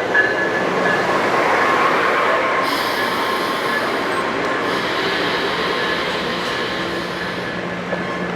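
Amtrak Pacific Surfliner passenger cars rolling past: a steady rumble and rush of steel wheels on rail, with thin high wheel squeal tones over it, loudest in the first few seconds and slowly easing.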